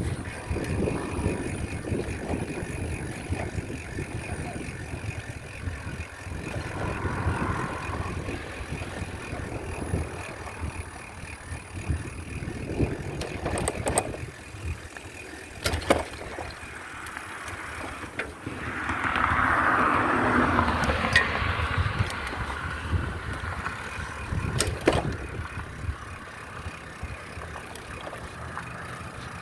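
Riding noise from a bicycle: steady wind buffeting on the microphone with occasional sharp knocks and rattles, and a louder rushing swell about two-thirds of the way through.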